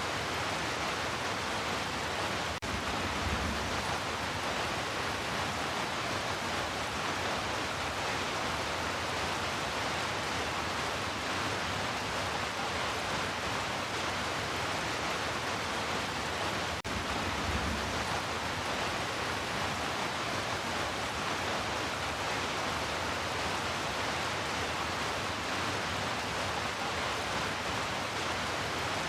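Heavy rain falling as a steady, even hiss, with two brief low rumbles, about three seconds and seventeen seconds in.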